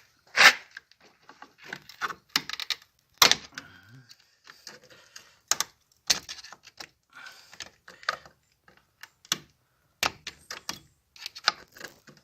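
Irregular metallic clicks, clinks and knocks of small metal car parts, springs and a plate, being handled and fitted by hand. The two loudest knocks come about half a second in and just after three seconds.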